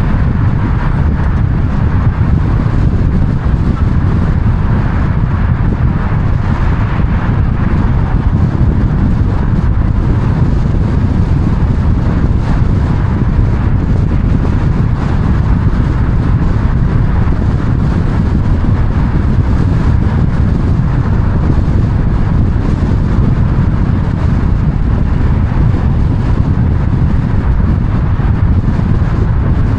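Steady road and wind noise of a car driving along, an even rumble that doesn't change.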